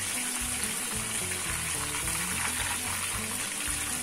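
Whole masala-coated pomfret deep-frying in hot oil, the oil bubbling and sizzling steadily.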